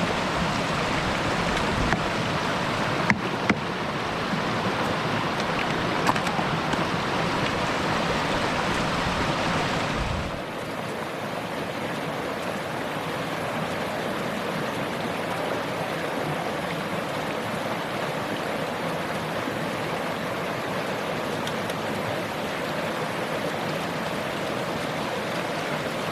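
A mountain brook rushing over rocks, a steady wash of running water. A few sharp clicks sound in the first several seconds, and the water becomes suddenly quieter about ten seconds in.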